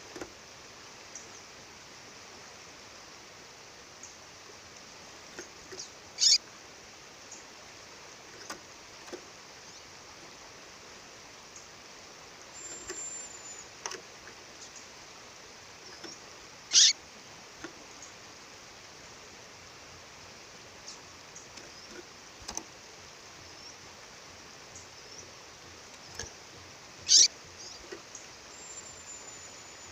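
A female songbird giving single sharp, very short high calls about every ten seconds, three in all, with fainter high peeps between them, over the steady rush of a waterfall.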